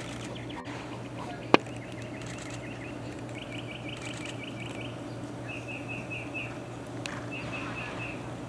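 Small birds chirping in quick runs of repeated short notes over a steady low hum. A single sharp click about one and a half seconds in is the loudest sound.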